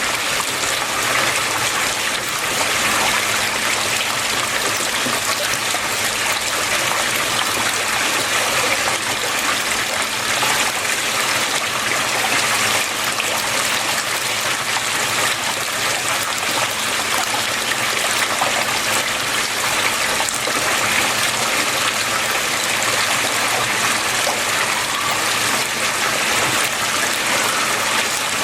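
Water flowing and splashing steadily, an even unbroken rush.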